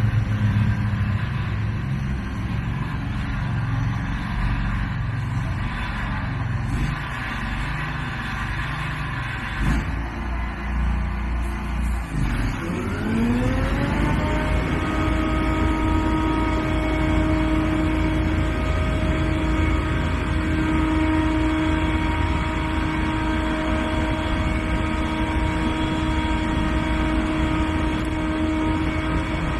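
Scag Windstorm stand-on blower running: its engine rumbles at low speed, then about twelve seconds in it throttles up with a rising whine that settles into a steady high whine at full speed.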